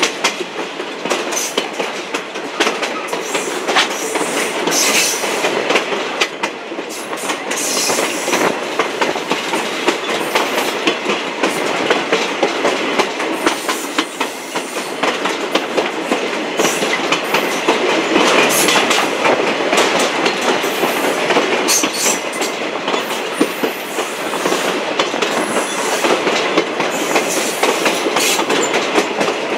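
Excursion train running, its wheels clicking over the rail joints with a steady rumble.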